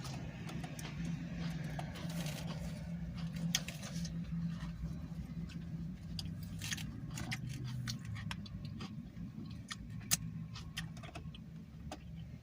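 Eating sounds: chewing with scattered small clicks and crinkles of a food wrapper over a steady low hum.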